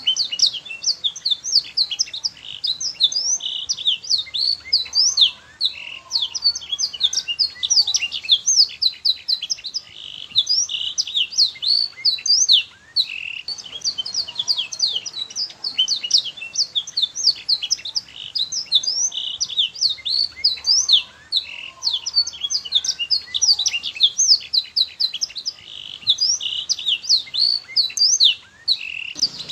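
Male domestic canary singing a long, almost unbroken song of fast, high chirps and rolling trills.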